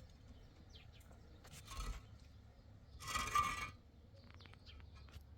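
A sheep bleats once, a short call about three seconds in, with a fainter animal sound shortly before it. Faint bird chirps sound in the background.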